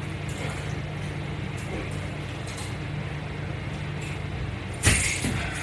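Steady low hum with faint short rustles, then a sudden loud burst of hiss about five seconds in that fades within half a second.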